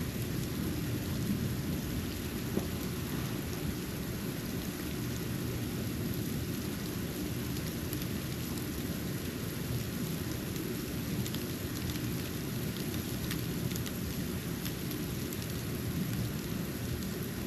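Steady low rumbling outdoor ambience during a snowfall, with faint scattered ticks of snow landing.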